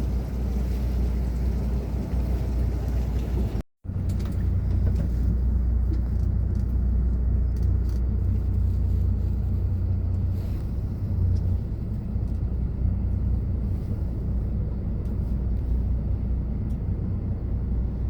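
Small tour boat's engine running, a steady low rumble, broken by a moment's silence about four seconds in.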